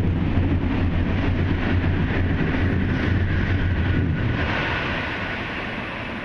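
E5 series Shinkansen train passing at speed: a loud rushing noise with a deep hum that holds for about four seconds, then fades as the train moves away.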